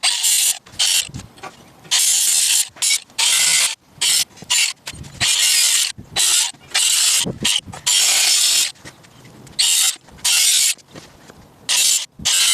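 Aerosol spray-paint can spraying in a string of short hissing bursts, each under about a second, with brief pauses between.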